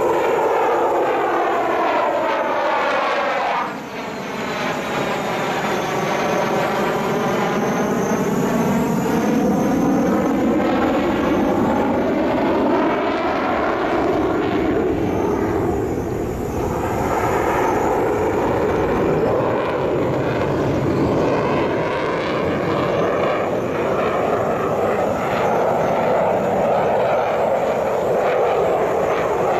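Mitsubishi F-2 fighter's single F110 turbofan engine on a display pass: continuous loud jet noise with a phasing, swishing sweep in pitch as the jet passes. It dips briefly about four seconds in, then swells again.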